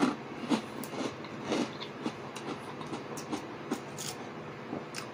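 Close-miked eating sounds: chewing with wet mouth clicks and smacks, repeating about twice a second, with a few sharper clicks in between.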